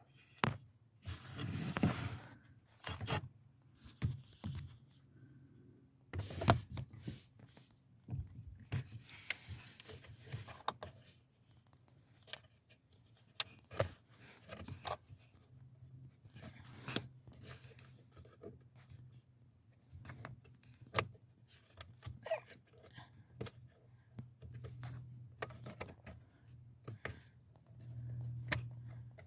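Hands working a car's plastic interior trim panel loose: scattered sharp clicks, snaps and scraping of plastic and its clips and screws. A faint low hum comes and goes in the background, strongest in the second half.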